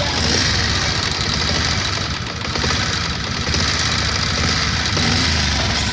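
Bajaj Pulsar BS6 motorcycle's single-cylinder engine idling with a rapid, steady tick-tick-tick from the valve train. The tick comes from loose tappet clearance; adjusting the tappets later makes the engine run smooth.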